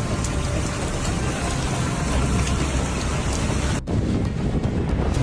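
Heavy rain pouring, a dense steady rushing noise. About four seconds in it cuts off abruptly and gives way to a duller rushing noise with wind buffeting the microphone.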